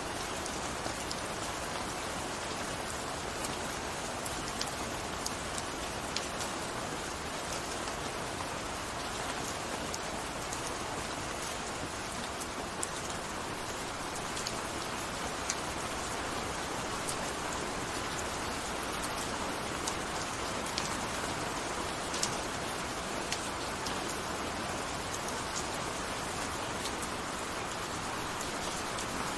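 Steady gentle rain falling, an even hiss with scattered individual drop ticks.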